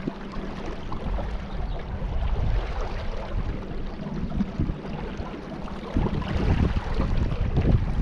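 Wind buffeting the microphone in gusts, with a steady rush of moving water underneath.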